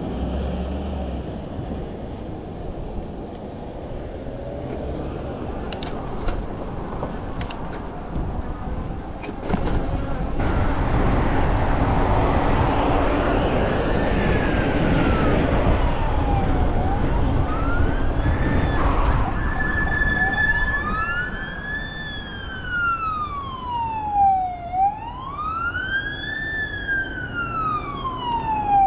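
Emergency vehicle siren wailing, rising and falling in pitch about every four seconds. It comes in about halfway through and grows louder toward the end, over steady road and tyre noise heard from inside a moving car.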